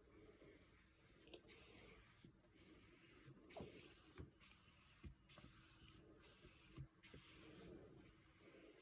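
Faint swishing of a large flat brush sweeping watercolour wash across wet paper, in strokes about a second apart, with a few soft taps.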